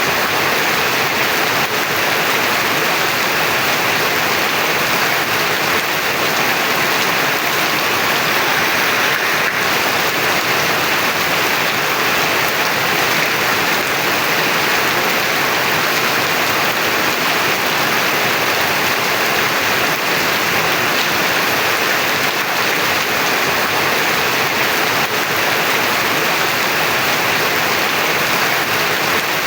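Heavy rain falling steadily and evenly, a dense hiss with no breaks or thunder.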